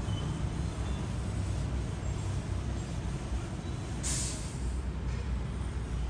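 Steady low rumble with a short, sharp hiss about four seconds in.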